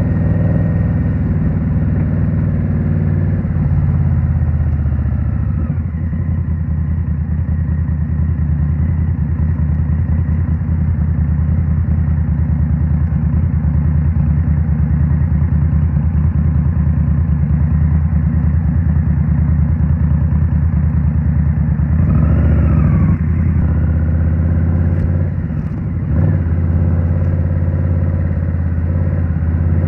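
2023 Indian Scout Rogue's V-twin engine, breathing through a Rinehart 3.5-inch slip-on exhaust, running steadily while riding through city streets. A brief rise and fall in pitch comes about three-quarters of the way through, followed shortly by a short dip as the throttle eases.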